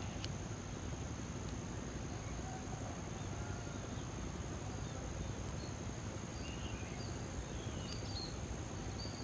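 Insects droning steadily at a high, even pitch over low outdoor background noise, with a few faint short high chirps in the second half.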